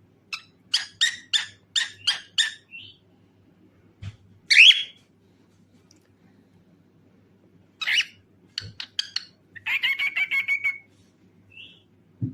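Cockatiel chirping and calling. A run of about seven quick chirps comes in the first few seconds, then one loud call about four and a half seconds in, and more chirps ending in a fast chattering run near ten seconds.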